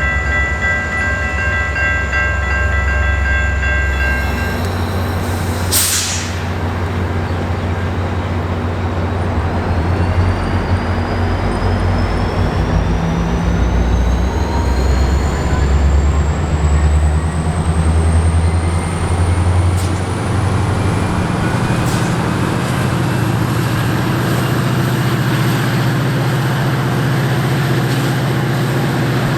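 Train locomotive running with a heavy low rumble. A chord-like train horn sounds and cuts off about four seconds in, there is a sharp click about six seconds in, and from about ten seconds a faint whine climbs slowly in pitch as the train goes on.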